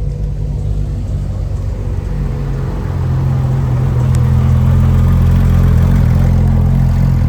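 Car engine running with a steady low rumble, getting louder about three seconds in and then holding.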